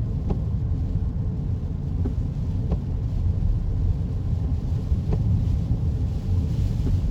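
Steady low rumble of a car driving on a wet road, heard from inside the cabin, with a few sharp ticks at uneven intervals.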